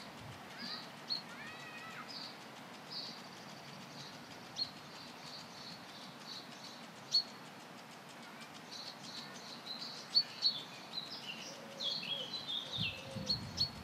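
Small birds chirping: short, high calls scattered throughout, growing busier over the second half with some quick falling notes near the end.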